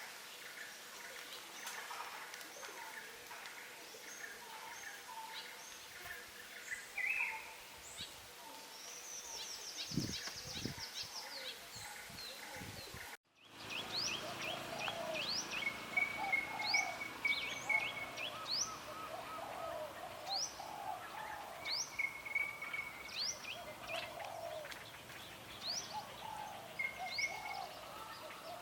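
Mixed wild forest birds calling and singing: many short chirps and whistles, with a fast trill about nine seconds in and a couple of low thumps just after. About halfway through the sound drops out briefly, and a different chorus begins with a sharp rising whistle repeated about once a second over lower warbling calls.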